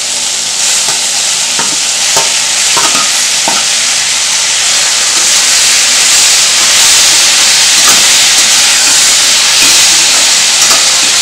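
Chopped onions and tomatoes sizzling in hot oil in a stainless steel kadai as a spatula stirs them, scraping against the pan. Several sharp knocks come in the first few seconds as the tomatoes go in and the stirring starts.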